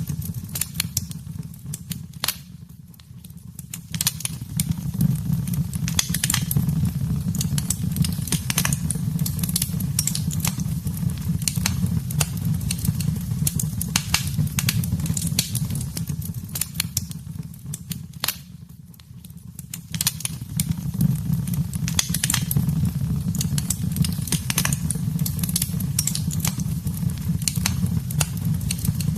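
Wood fire burning in a fireplace: a steady low rumble of flames with frequent sharp crackles and pops. The fire briefly goes quieter twice, a few seconds in and again about two-thirds of the way through.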